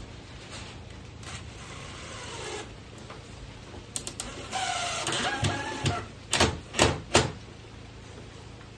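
Scraping and rubbing with a brief wavering creak, then three sharp knocks in quick succession, the loudest sounds here.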